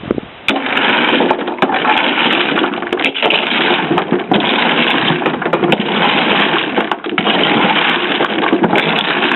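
A loud machine grinding and knocking against a spray-in truck bed liner in an abuse test, starting about half a second in and running on with many sharp knocks.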